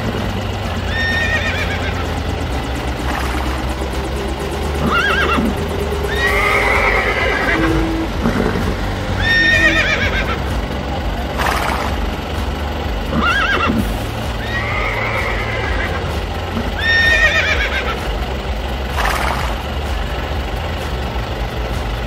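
Horse whinnying over and over, a quavering neigh that falls in pitch about every two seconds, over a steady low hum.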